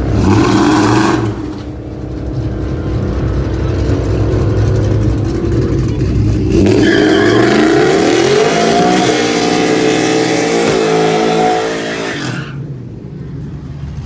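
Drag-racing vehicle engines running hard at the strip. The pitch climbs steeply for a couple of seconds around the middle, then the loud run cuts off sharply near the end.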